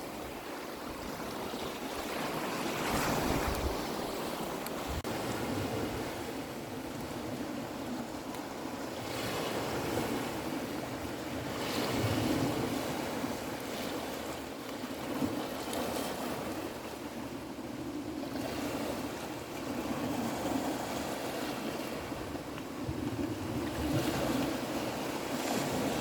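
Sea surf washing ashore, a steady rush of water that swells and ebbs every few seconds as waves break.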